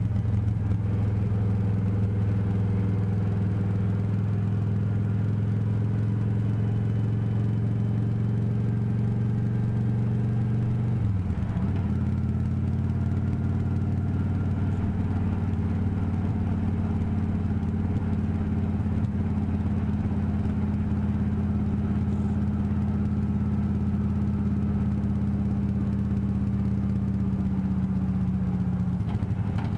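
Motorcycle engine running steadily while riding. Its note dips briefly about eleven seconds in, then holds steady, and falls near the end.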